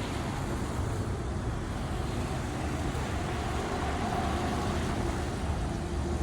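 City street traffic passing on a rain-wet road: a steady rumble of vehicles with tyre hiss.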